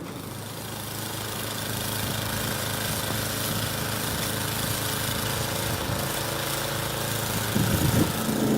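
Engine of a snow-clearing machine running steadily, its hum slowly growing louder.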